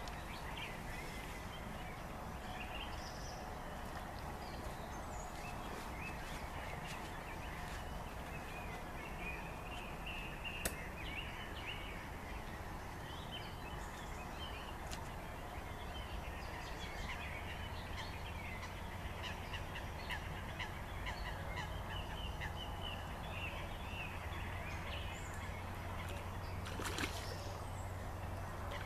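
Birds calling with many short chirps throughout, and one sharp click about eleven seconds in.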